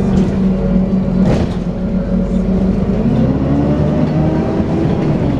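Dennis Trident 2 double-decker bus running under way with its whining 'hoover' drivetrain tone; the pitch climbs from about three seconds in as the bus picks up speed. A short knock or rattle about a second in.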